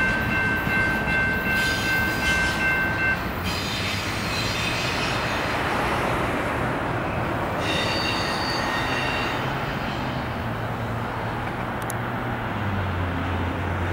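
Double-stack intermodal container train rolling past, with steel wheels squealing in high, steady tones for the first three seconds and again about eight seconds in, as the end of the train moves away.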